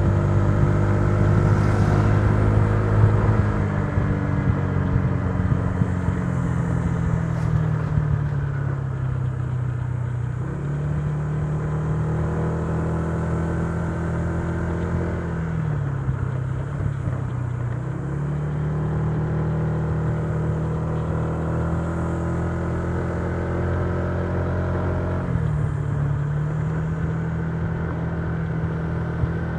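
Honda Giorno 125 scooter's single-cylinder engine running under way. Its pitch eases down over the first third, then drops and picks back up a few times as the throttle is eased off and reopened.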